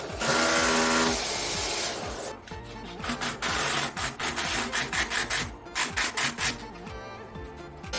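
A tool scraping or rasping against material. It starts with a steady pitched whine for about the first second, then from about three seconds in comes a run of quick strokes, about three a second.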